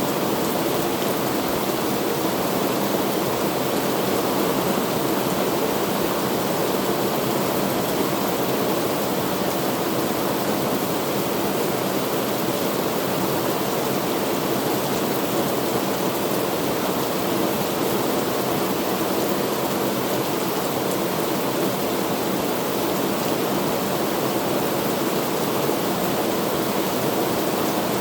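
Heavy rain falling, a steady even hiss with no distinct drops or thunder standing out.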